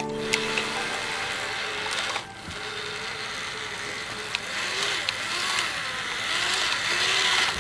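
Small electric motors of a cardboard RC truck whirring, their pitch wavering up and down, with a few sharp clicks.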